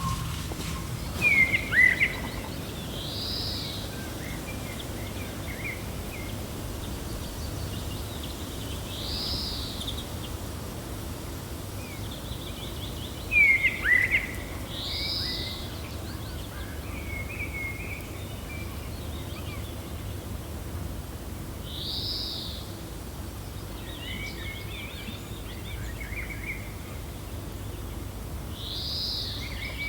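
Wild birds calling over a steady low wind. A high arched call repeats about every six or seven seconds. Twice, near the start and about halfway through, a louder sharp call with quick chattering stands out.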